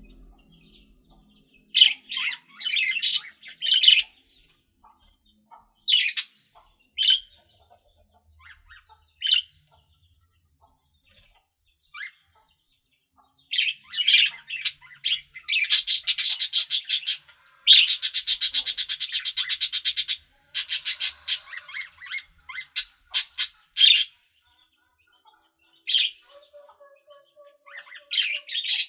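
Pet budgerigars chirping in short, scattered calls with quiet gaps between them. About halfway through, a run of fast, continuous chattering lasts several seconds.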